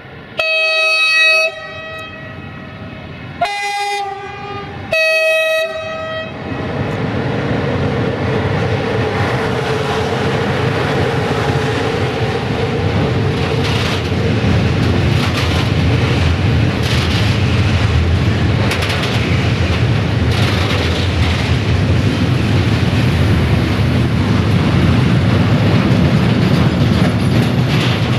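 A 060-EA (LE 5100 kW) electric locomotive sounds its horn in three blasts about a second long, the middle one on a higher note. Then its freight train rolls past with steady wheel-on-rail noise that builds and stays loud, with clattering over the rail joints.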